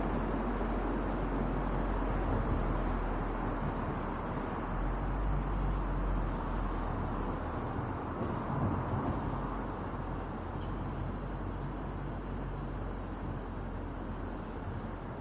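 Steady road noise of a car driving on an expressway, heard from a roof-mounted camera: tyre and wind noise over a low rumble, easing a little toward the end.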